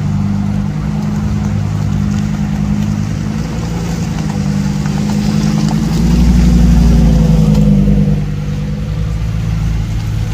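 Car engine running with a steady low note, swelling louder about six seconds in, as in a light rev, then settling back about two seconds later.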